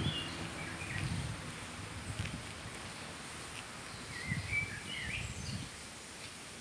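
Small birds calling in the trees: short high chirps near the start and a quick warbling phrase about four seconds in, with a few soft low thumps in between.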